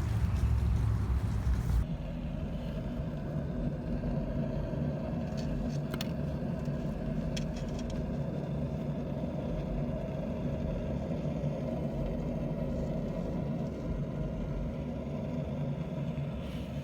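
Rooftop HVAC unit running with a steady mechanical hum made of several low tones, after a louder low rumble in the first two seconds.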